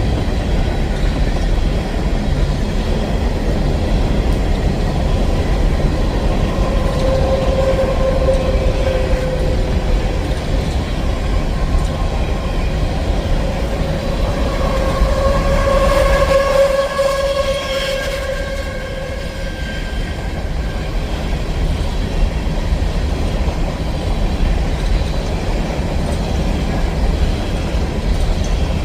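Empty coal hopper cars of a CSX freight train rolling steadily past, rumbling and clattering over the rails. Twice near the middle, drawn-out tones ring out over the train noise.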